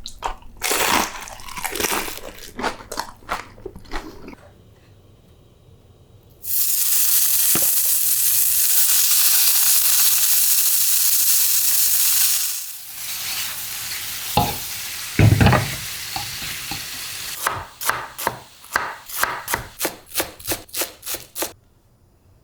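Homemade taquitos frying in hot oil: a loud, steady sizzle for about six seconds, with crackling before it and a quieter sizzle after. Near the end comes a quick run of sharp crisp crunches, about three or four a second.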